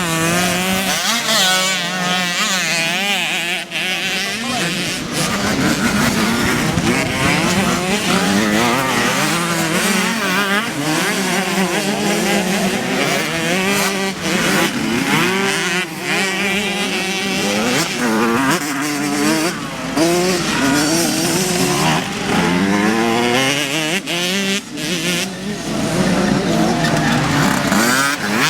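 Several small two-stroke youth motocross bikes (50cc and 65cc) racing on the track, their engines overlapping and revving up and down continuously as they accelerate and pass.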